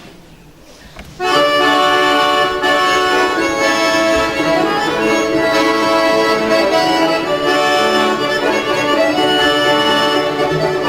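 Accordion playing the instrumental introduction to a Russian folk song, held chords and melody coming in about a second in.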